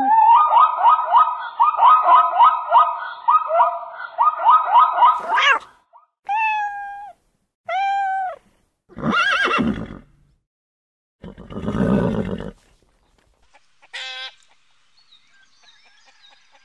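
Plains zebras barking: a quick run of high, repeated yelping calls. Then a cat meows twice, followed by two longer, harsher cries. Near the end come a short squawk and faint clucking from chickens.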